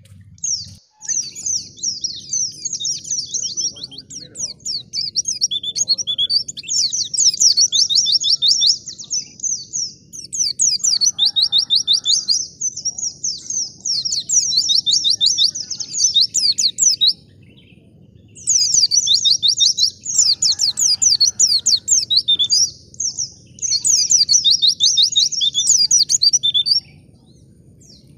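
White-eye (pleci) singing fast, high twittering trills in long unbroken runs of several seconds, with a short break about two-thirds of the way through. A faint low background hum sits underneath.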